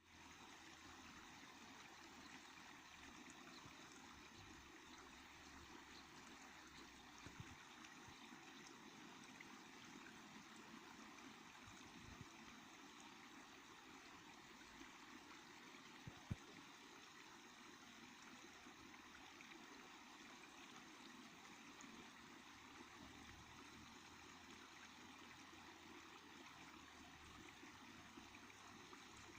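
Small mountain stream or brook running steadily, a faint, even babble of flowing water. A few small clicks are heard, the sharpest a little past halfway.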